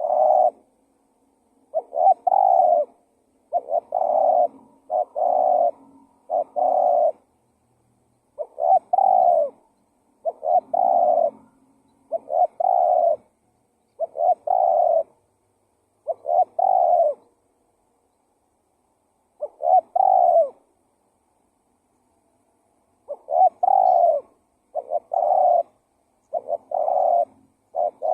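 Spotted dove (tekukur) cooing over and over: short, low, pitched coos in runs of several notes, broken by a couple of pauses of a few seconds, as on a recording used as a lure call for wild doves.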